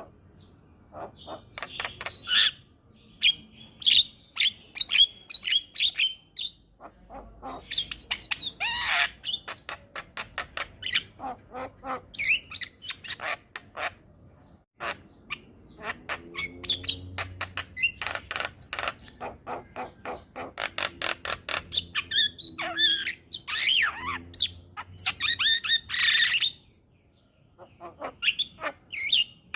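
Javan myna (jalak kebo) singing a chattering song: fast runs of clicks and harsh squawky notes mixed with whistled calls, in bursts with short pauses between them.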